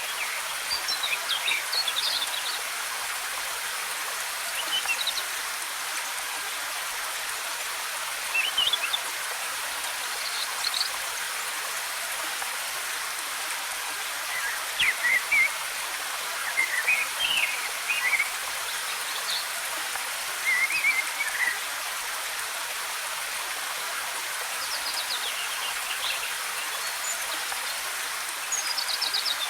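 Waterfall water rushing in a steady hiss, with forest birds chirping and trilling in short, scattered phrases throughout.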